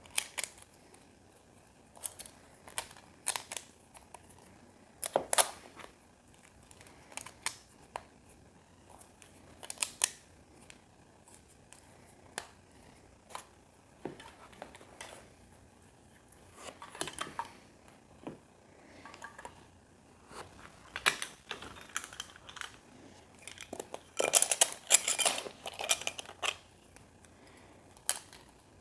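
Small plastic building pieces clicking and rattling as they are picked up, sorted and pressed together, in scattered separate clicks. There is a longer burst of rattling near the end.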